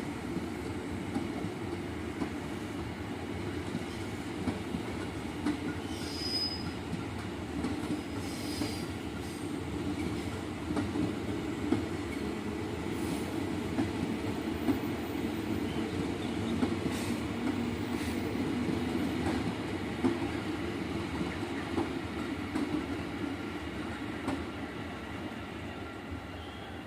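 A train rolling slowly past at reduced speed, with a steady rumble, scattered clicks of wheels over rail joints and a couple of brief high wheel squeals.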